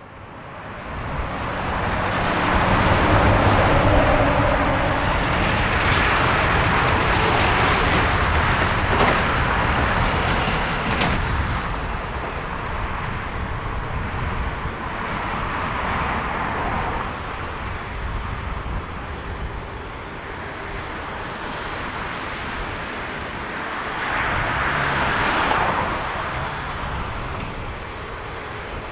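Airbus A350-900's Rolls-Royce Trent XWB turbofan engines running, heard as a loud, continuous rushing rumble. It builds over the first two seconds, then swells and eases several times.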